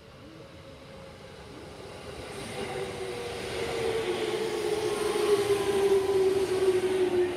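JR 205-series electric train drawing into the station, growing steadily louder. A whine from its drive slides slowly lower in pitch as it comes in.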